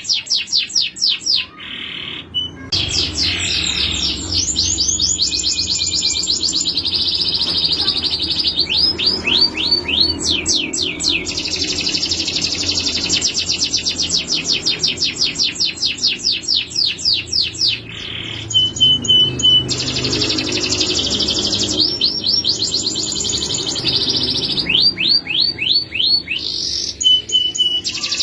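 Male canary singing long rolling trills of rapid, evenly repeated notes, broken by a few short pauses between phrases.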